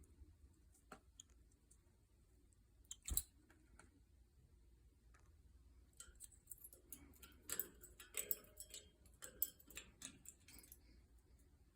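Faint, scattered clicking and small taps, with one sharper click about three seconds in and a busier run of clicks in the second half.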